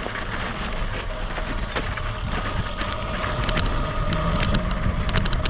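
Dirt bike engine running steadily while riding, with wind buffeting the microphone and scattered clicks.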